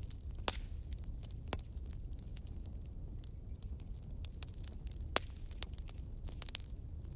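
Wood campfire crackling: irregular sharp pops and snaps over a low, steady rumble, with a brief faint whistle about three seconds in.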